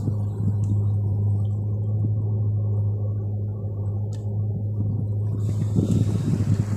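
Boat motor running steadily with a low, even hum during its break-in run, which the owner says is running stably. Near the end, wind noise and water rush come in over it.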